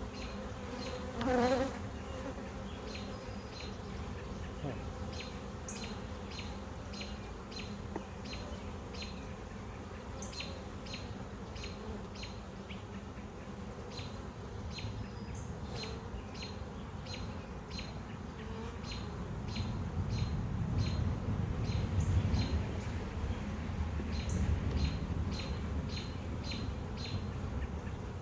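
Honey bees buzzing around an open hive. A bee flies close past the microphone about a second in, and the buzzing grows louder in the later part. A regular series of short high chirps, about two a second, runs through most of it.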